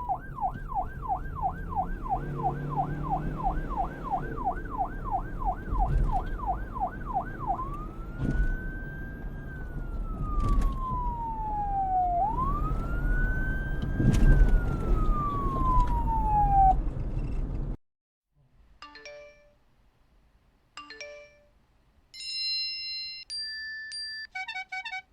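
Police siren over traffic rumble: a fast yelp of about three rising sweeps a second, then a slow wail that rises quickly and falls over several seconds, cut off suddenly. After a short gap come two brief electronic tones, then a beeping electronic alarm melody.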